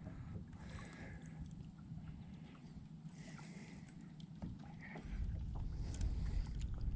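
Faint low rumble around a small fishing boat on the water, with soft sloshing and a few light knocks. The rumble grows louder about five seconds in.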